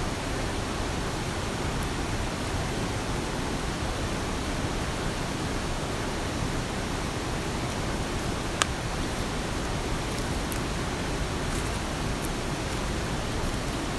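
Heavy rain falling, a steady dense hiss, with a single sharp tick a little past halfway.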